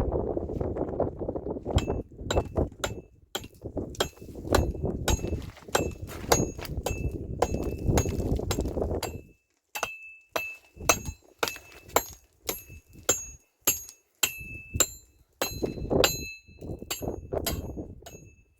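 A rapid, irregular series of sharp clinks, many with a brief metallic ring, as hard objects strike one another. A low rumbling noise runs under them for the first half and stops about halfway through.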